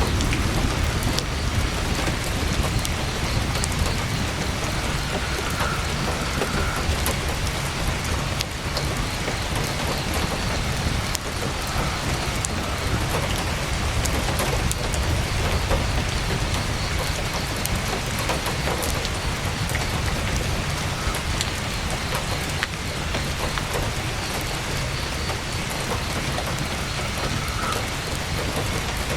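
Heavy rain drumming steadily on tent fabric, with a deep rumble underneath and frequent small sharp crackles from a campfire.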